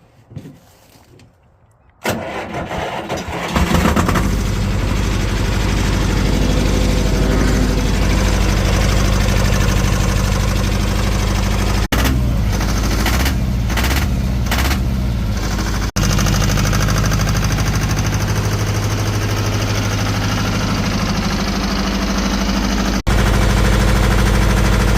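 Belarus 220 tractor's two-cylinder air-cooled diesel engine, with no glow plugs, cold-started at about 40 degrees: the starter cranks about two seconds in, the engine catches within a second or two, then runs steadily.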